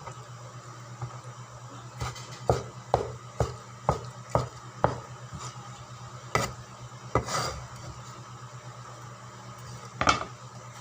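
Utensil clinking and scraping against a dish as chopped sisig is mixed with onions, chilies and seasoning. A run of sharp clinks comes about two a second, then a few scattered ones, over a steady low hum.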